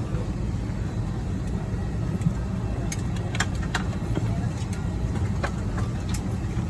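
Steady low engine rumble heard from inside a moving vehicle, with scattered small clicks and taps.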